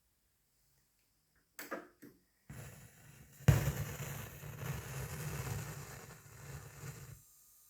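Knocks and rubbing handling noises, loudest at a sharp knock about three and a half seconds in, with a rumbling low noise that stops about seven seconds in and leaves a faint steady hiss.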